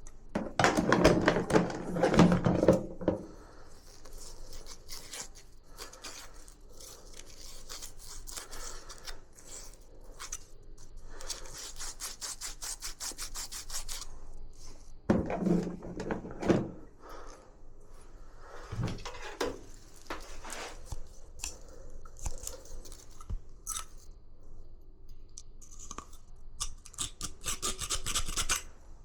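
Hand work on gas water heater parts: rapid, evenly repeated scraping or brushing strokes, with loud knocks and handling in the first few seconds and again about halfway through.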